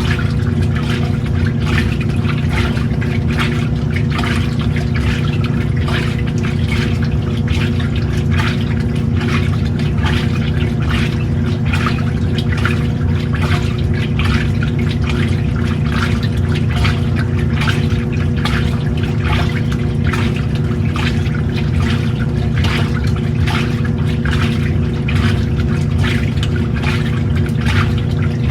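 Old-style washing machine running a wash: a steady motor hum under continual sloshing and splashing of water.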